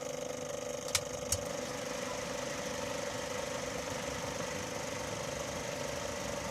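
A small electric motor or fan humming steadily, with two sharp clicks about a second in.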